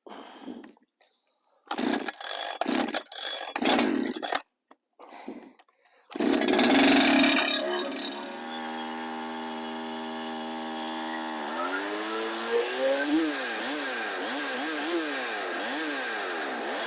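Holzfforma G372XP two-stroke chainsaw, a clone of the Husqvarna 372XP, being pull-started with a few short rasps of the starter. It catches about six seconds in and idles at a steady pitch. Then its engine speed climbs and swings up and down repeatedly.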